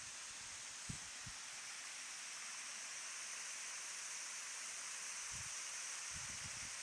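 Steady rushing of a waterfall, an even hiss of falling water. A few soft low thuds come about a second in and again near the end.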